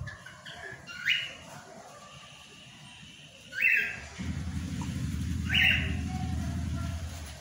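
A bird calling: three short, sharp calls a couple of seconds apart. From about four seconds in, a steady low rumble runs underneath, stopping near the end.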